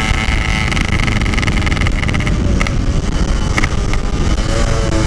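Yamaha RX-King two-stroke single-cylinder engine running under way, breathing through a standard-looking 'belek' aftermarket exhaust, with a steady buzzing note and wind on the microphone. A couple of brief sharp clicks cut in partway through.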